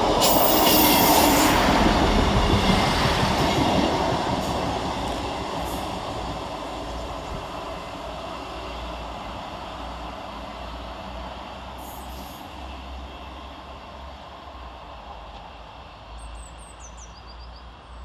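Class 158 diesel multiple unit passing through at speed: wheel and rail noise is loudest in the first few seconds, with a brief high hiss about a second in, then fades steadily as the train runs away into the distance. A few bird chirps near the end.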